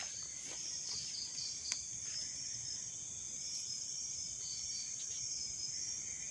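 Night crickets and other insects chirping: a steady high shrill with a row of short repeated chirps just below it. A faint click about 1.7 s in.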